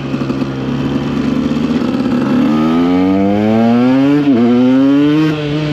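KTM EXC 125 two-stroke single-cylinder dirt bike engine pulling away under throttle. It runs fairly steadily at first, then revs rise, dip sharply at an upshift about four seconds in, and climb again before the throttle is closed near the end.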